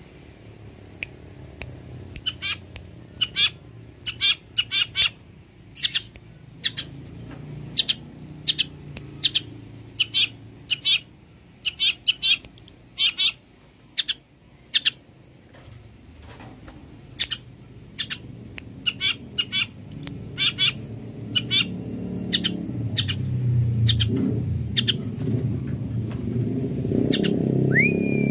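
Long-tailed shrike (cendet) singing: short notes repeated in quick clusters of two to four, thinning out after about 25 seconds, with one rising note near the end. A low rumble builds up underneath over the last several seconds.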